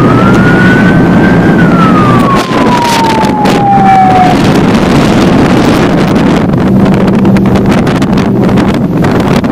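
Motorboat running under way: a steady engine drone mixed with rushing wind on the microphone and irregular knocks. Over the first few seconds a single tone rises, then slowly glides down and stops.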